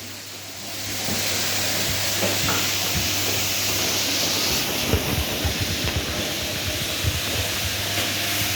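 Whirlpool washing machine on its spin cycle: a steady whooshing hiss over a low hum, with scattered light knocks. It is quieter for about the first second, then comes back up to a steady level.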